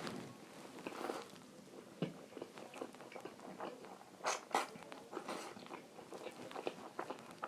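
Close-up eating sounds: a person chewing with a steady run of wet clicks and smacks, with two louder bites about four and a half seconds in.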